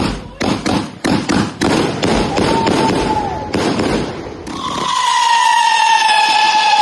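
Battery firework (multi-shot cake) going off in a quick run of sharp bangs and crackles, two or three a second. About four and a half seconds in, the bangs give way to a long, loud whistle that glides slowly down in pitch.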